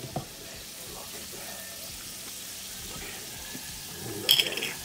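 Asparagus sizzling steadily in a skillet with soy sauce and oil. Near the end, a metal spoon clatters briefly against the pan.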